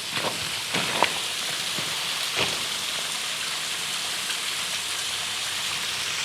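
A small waterfall splashing, a steady hiss of falling water with light flow. A few light knocks come in the first couple of seconds.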